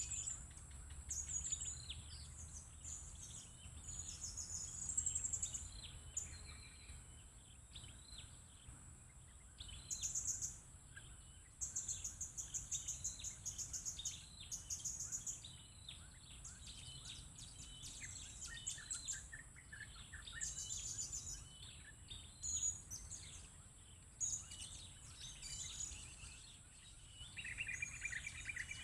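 Blue-crowned hanging parrots calling: repeated runs of rapid, high-pitched chirps over a steady high hiss.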